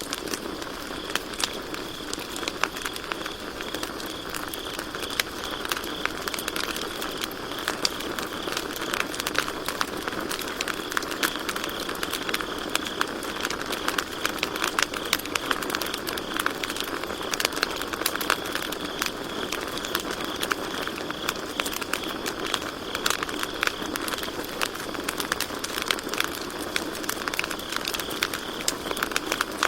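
Campfire crackling with many sharp irregular pops and snaps over a steady hiss of burning wood. Crickets trill steadily and high-pitched behind the fire.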